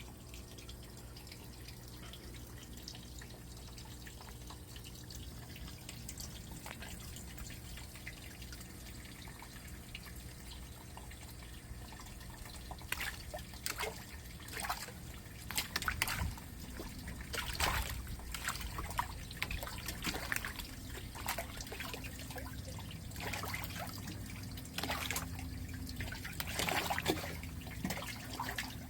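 Water trickling and dripping steadily, with a run of short splashes starting about halfway through and growing busier near the end.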